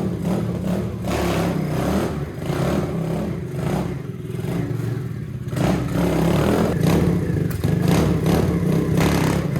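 Small motorcycle engine revving up and down as the bike is ridden, getting louder about halfway through.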